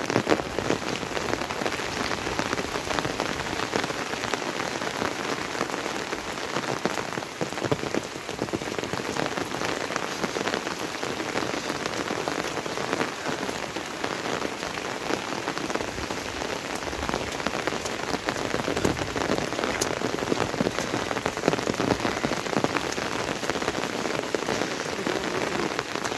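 Steady monsoon rain falling on an umbrella held overhead, a dense, even spread of drops throughout.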